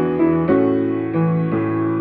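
Solo piano playing slow sustained chords, with new notes struck a few times and left to ring.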